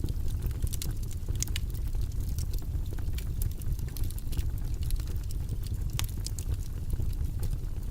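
A steady, low, rumbling white-noise background track, with scattered light clicks over it, irregular and a few a second.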